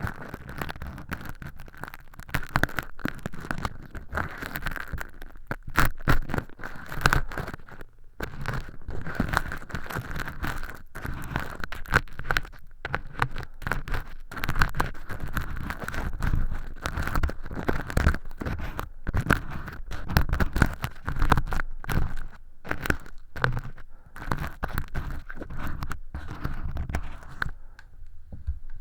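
Earpick scraping and scratching inside a silicone ear model's canal, crackling as it lifts thin skin-like flakes of fake earwax. The strokes come thick and fast, close up, without a break.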